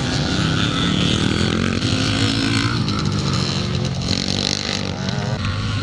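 Vintage motocross motorcycles racing on the track, several engines revving at once and their pitch rising and falling as riders work the throttle.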